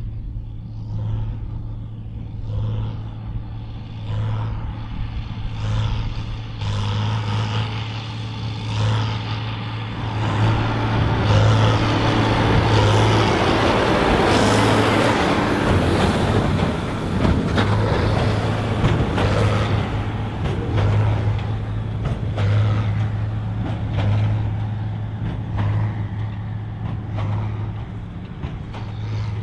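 John Deere 4955's six-cylinder diesel running hard under load while pulling a Krone BigPack big square baler, with the baler plunger's steady pulsing beat a little over once a second. It grows louder and fuller for about ten seconds in the middle, then eases back.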